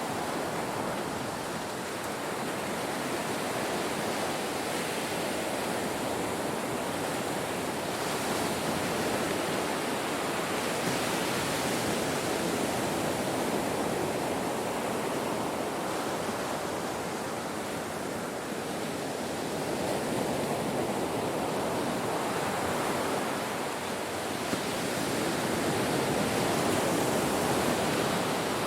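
Ocean surf breaking on a shore: a continuous wash of water noise that swells and eases slowly over several seconds, loudest near the end.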